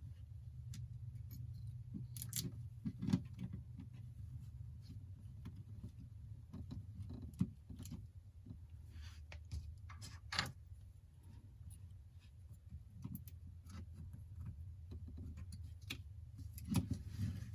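Small repair tools and phone parts clicking and tapping irregularly while an iPhone 8 is worked on, over a steady low hum.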